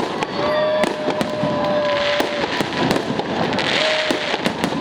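Fireworks salute going off: a string of sharp bangs and crackles over a continuous rumbling din. Steady whistling tones rise in, hold for a second or two and fall away over it.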